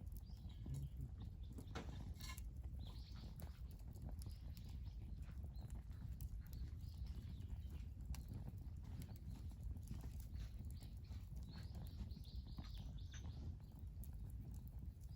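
Wood campfire crackling with scattered sharp pops, over a steady low rumble.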